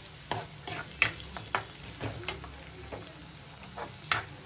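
Chopped onions and curry leaves frying in oil in a kadai: a steady sizzle, with a steel spoon scraping and clinking against the pan in repeated, irregular strokes as they are stirred.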